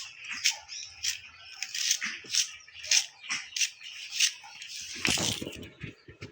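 Repeated short scraping or crunching strokes, about two a second, from preparing a raw sambal by hand. About five seconds in there is a louder, fuller knock.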